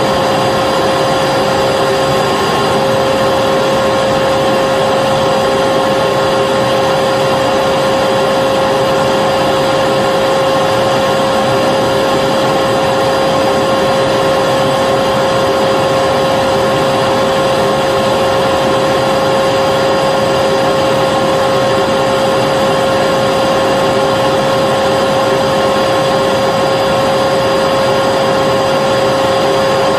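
Vacuum cleaner running continuously at a steady speed, a loud rushing noise with a constant high motor whine.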